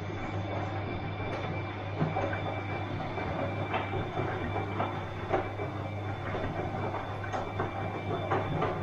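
Bosch washing machine running: a steady low motor hum with scattered clicks and knocks from the turning drum.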